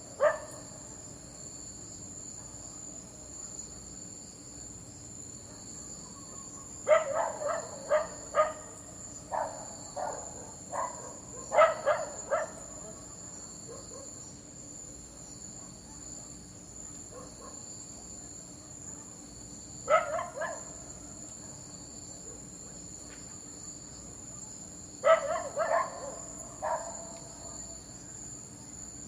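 A dog barking in short runs of a few sharp barks with long pauses between them, over a steady high-pitched cricket chorus.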